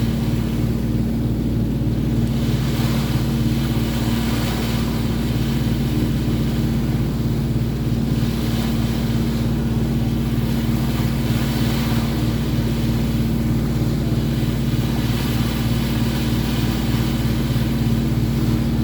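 Boat engine running steadily with a constant low drone and hum, with swells of wind and water noise over it.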